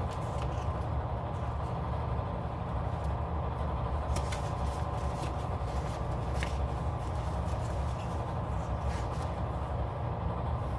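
A steady low hum with no words over it, broken by a few faint clicks.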